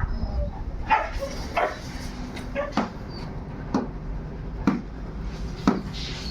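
A large dog barking, about seven short barks roughly a second apart, over a steady low rumble.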